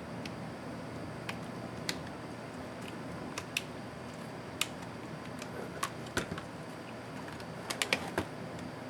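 Scattered light clicks and taps of small laptop parts and tools being handled during disassembly, with a quick cluster of clicks near the end.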